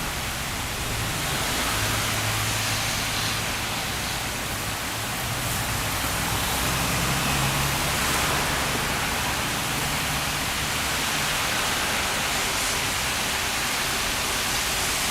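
Steady rain falling, an even hiss, with a faint low hum underneath during roughly the first half.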